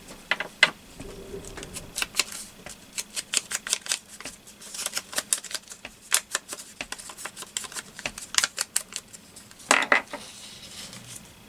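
Paper pieces and stamps being handled and laid on a tabletop: an irregular run of light clicks and taps, with a louder rustle about ten seconds in.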